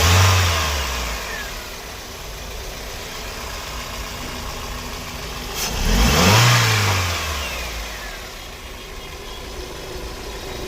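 2009 Toyota Corolla engine catching and revving as the cranking ends, then settling to a steady idle; about six seconds in it is revved once more, rising and falling back to idle. The car had a crank-no-start fault and is now running.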